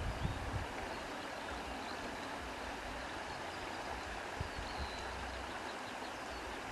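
Steady rushing noise of an outdoor nature recording, with a few faint high chirps. Low rumbles sound in the first half-second and then stop.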